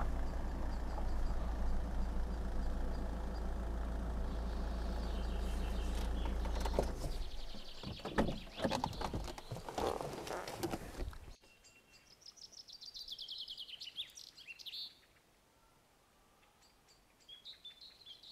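A steady low mechanical rumble with a droning hum, giving way after about seven seconds to a few seconds of irregular knocks and rustling. It cuts off abruptly, and small birds sing rapid high trills and chirps in the quiet that follows.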